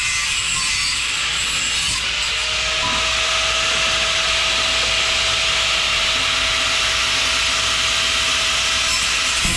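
A power tool cutting mild-steel exhaust tubing, with a steady, unbroken rasping noise.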